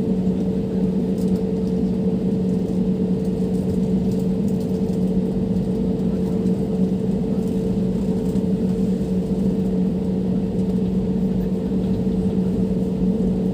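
Steady drone of a jet airliner's engines and airflow heard inside the passenger cabin: a low hum and a higher steady tone over an even rushing noise.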